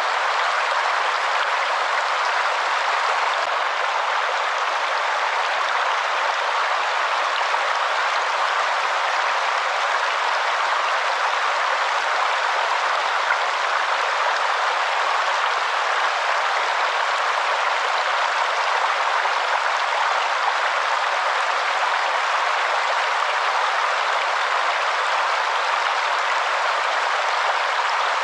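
Waterfall: a steady rush of falling water, even and unchanging, with little deep rumble.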